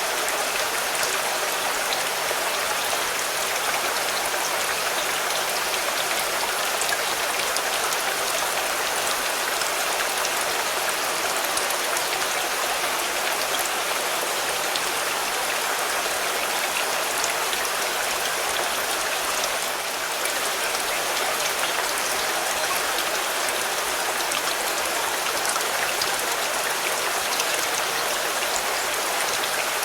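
Steady rain falling on a car: a dense, even hiss of drops with scattered single taps.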